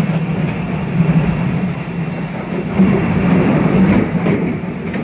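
Postojna cave railway's narrow-gauge tourist train running through the cave, heard from an open carriage: a steady running rumble with a low hum and a few faint clicks.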